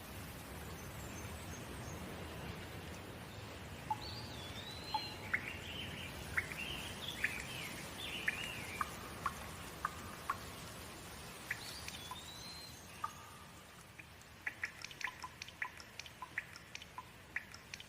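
Steady rain with birds calling over it: a run of short, sliding whistled chirps starting about four seconds in. Near the end the birds give way to a quick patter of individual water drops.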